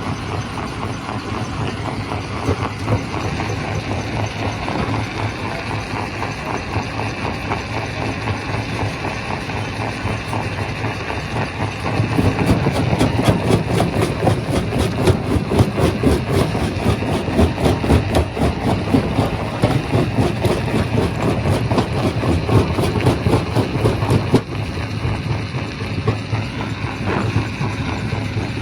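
Quarry primary rock crusher running with a steady mechanical drone. About twelve seconds in it turns louder, with dense rapid knocking and rattling for about twelve seconds, then settles back to the steadier running.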